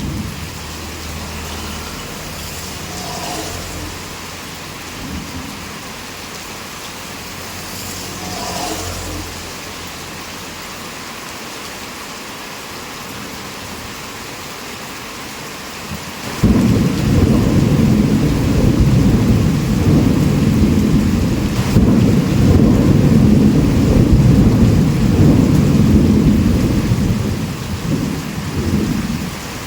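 Heavy rain falling steadily with thunder. Soft low rumbles come in the first few seconds, then a long, loud roll of thunder begins about halfway through and lasts around ten seconds before easing off near the end.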